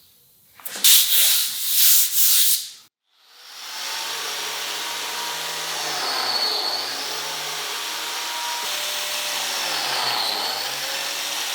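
Wood being sanded: about two seconds of loud rasping strokes, then a power sander running steadily on the wood, its motor pitch dipping briefly twice.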